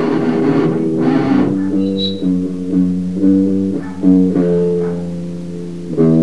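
Guitar and bass in a grind/noise rock recording playing a slow riff of held notes that change about every half second, with a louder chord struck near the end.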